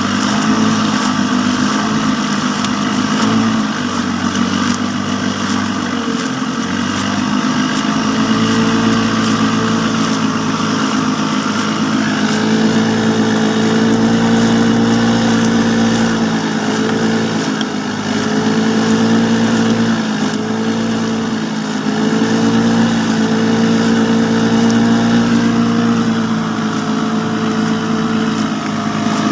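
Small engine running steadily under load, its pitch shifting a little, a touch higher from about halfway through with brief dips.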